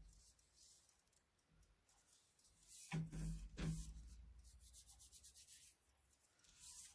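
Paper being handled and rubbed on a craft table: faint rubbing and rustling, two soft knocks about three seconds in, then a run of light ticks near the end.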